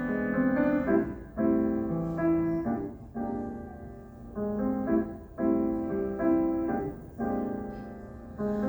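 Instrumental interlude played on an electric piano or keyboard: soft held chords and melody notes in short phrases, with no singing.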